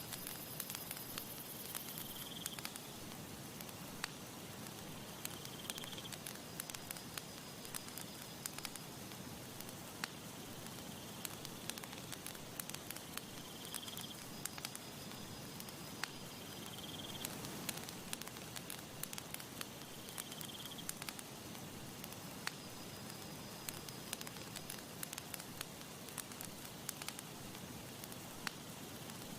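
Campfire crackling, with many irregular sharp snaps and pops over a soft steady rush of breeze. Faint short high chirps come every few seconds.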